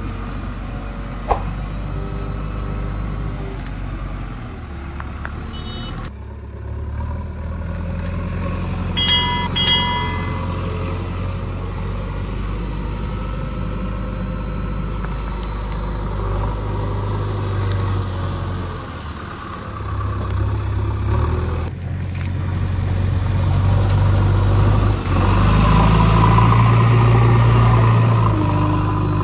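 JCB backhoe loader's diesel engine running steadily, working harder and louder near the end, with two short beeps about nine seconds in.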